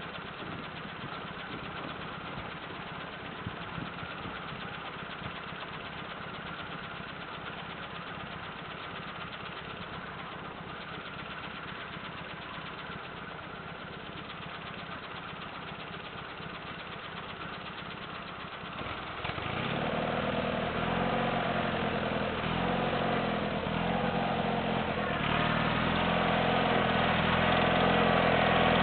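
Ariens GT17 garden tractor's worn-out Kohler engine running steadily and fairly faint. About two-thirds of the way through it becomes much louder and clearer, and louder again near the end.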